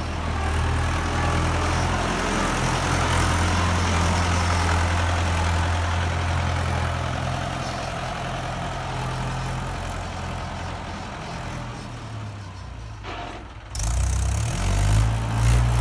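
Mahindra tractor's diesel engine running steadily under heavy load, a deep low drone. Near the end it dips briefly, then comes back suddenly louder.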